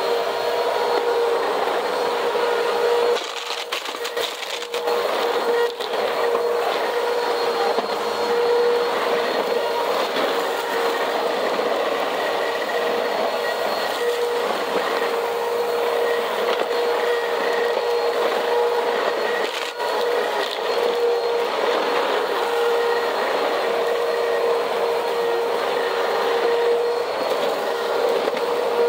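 Vacuum cleaner running steadily on a cement floor, its motor whining at a constant pitch over a rush of suction noise. There is a short dip and some crackling of debris being picked up about three to six seconds in.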